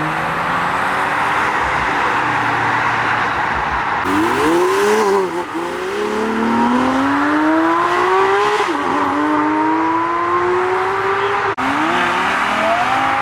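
Performance car accelerating hard away through several gears. The engine note climbs and falls back at each upshift, three or four times over the second half.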